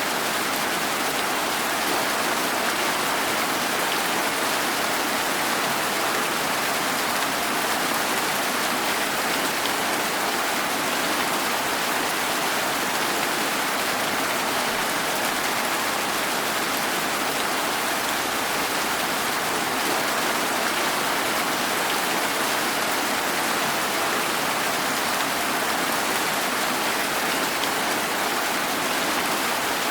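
Steady, even rainfall, a continuous hiss of rain on surfaces with no separate drops, thunder or other events standing out.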